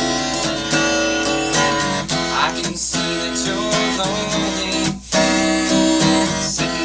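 Acoustic guitar strumming chords, with brief pauses about three and five seconds in.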